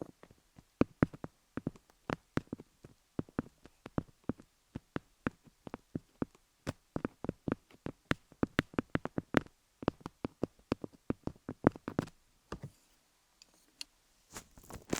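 Colored pencils tapping on a dummy-head microphone covered in cubic rhinestones: a quick, irregular run of sharp clicky taps, several a second. They stop shortly before the end, and a softer scratching follows after a brief pause.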